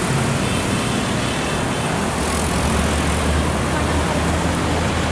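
Heavy diesel truck with trailer running steadily past, a low engine drone under steady road and traffic noise.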